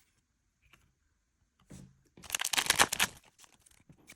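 Trading-card booster pack wrapper torn open in one quick rip about two seconds in, followed by crinkling of the wrapper and light clicks of the cards being handled.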